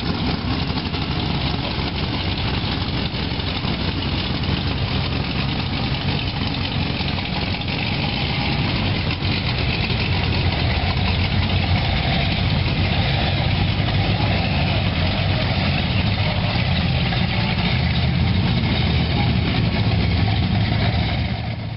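Low, steady engine rumble of cruise cars rolling past at walking pace. It grows louder about halfway through as an open-engine hot rod coupe crawls by close.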